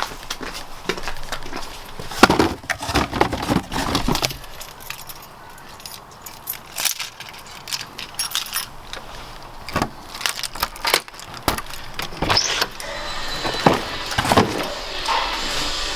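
Keys jangling, with irregular clicks, knocks and rustles of handling. A quieter stretch falls in the middle.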